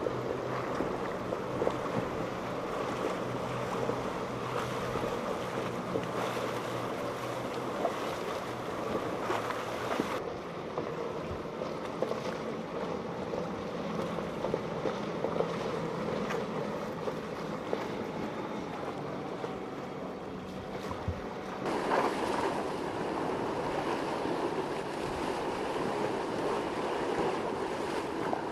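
Boat engines running over the wash of surf and waves, with wind buffeting the microphone; the sound changes abruptly about ten seconds in and again about twenty-two seconds in.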